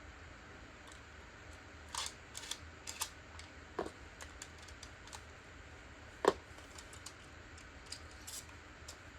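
Scattered clicks and taps of hard plastic Beyblade parts being handled and snapped into a new setting, with a sharper knock about six seconds in.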